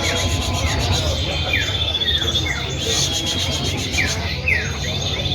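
Common iora (cipoh) calling: a run of short notes, each sliding downward, repeated irregularly about twice a second. A steady high whine lies under the calls in the first half, and a low hum runs beneath throughout.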